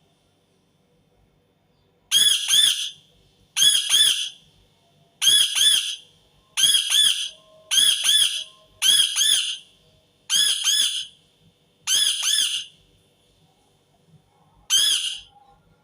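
Indian ringneck parakeet screeching: nine harsh, loud calls, each a quick run of two or three shrill notes, repeated about every second and a half, with a short pause before the last call.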